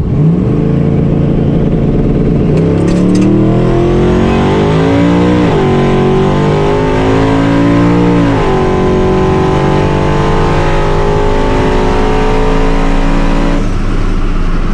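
Twin-turbo LS V8 pickup truck launching and accelerating hard down a drag strip on a quarter-mile pass. The engine note climbs steadily, drops with two upshifts about five and eight seconds in, and winds up again each time. It falls away near the end as the driver lifts off.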